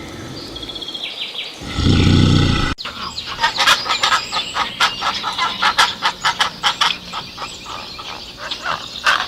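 Birds chirping in quick, repeated sharp calls, several a second, after a short low animal call that cuts off about three seconds in.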